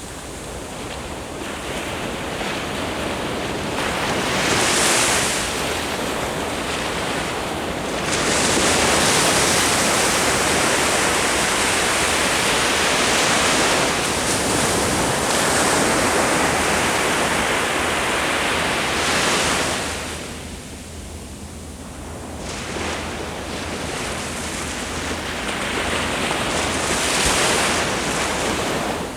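Ocean surf breaking and washing up the shore in slow surges. A long, loud wash of foam runs from about a third of the way in, eases off briefly past the middle, then another wave builds.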